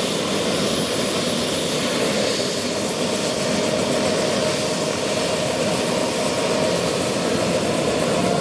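Bell 222 helicopter running with its two Rolls-Royce 250-C30G turboshaft engines: a steady turbine whine over even rotor noise.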